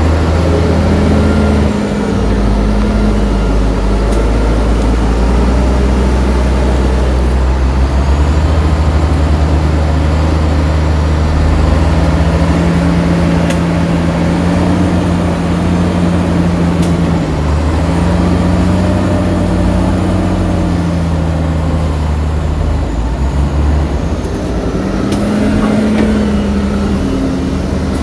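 Heavy diesel engines of earthmoving machinery running loudly, the engine note shifting up and down several times as the machines work under load.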